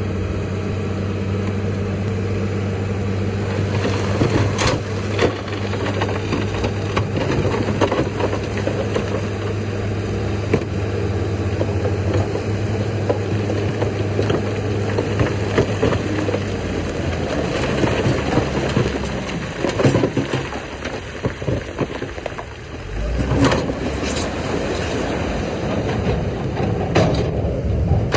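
Diesel engine of heavy earthmoving machinery running steadily, its pitch shifting about two-thirds of the way through, with scattered metallic clanks and scraping.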